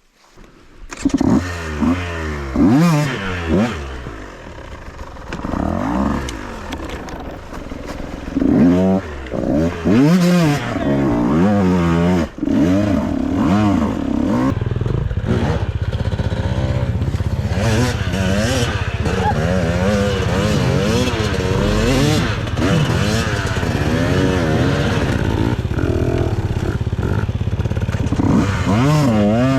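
Dirt bike engine revving up and down in repeated bursts, then running more steadily at higher revs through the second half.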